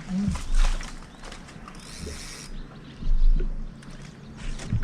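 Handling noise in a small fishing boat as a bass is landed in a net: two dull thumps on the hull with scattered clicks and rattles of gear.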